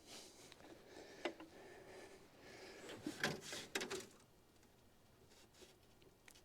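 A few faint clinks and knocks of tools and metal parts being handled, one about a second in and a small cluster around three to four seconds in, then near quiet.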